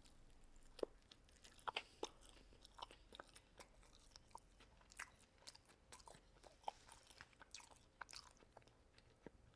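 Faint close-up chewing of fast food, with many irregular sharp mouth clicks and smacks spaced a fraction of a second apart.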